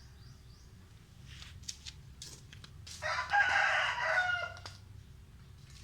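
A loud bird call lasting about a second and a half, starting about three seconds in, with a few short chirps before it.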